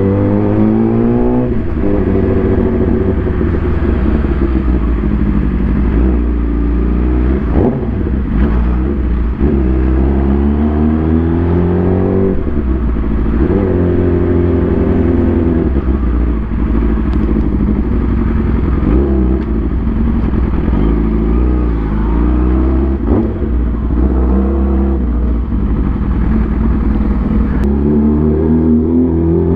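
A vehicle engine running under way, its pitch climbing again and again as it accelerates through the gears and dropping back at each shift. A steady low rumble of engine and road noise lies beneath.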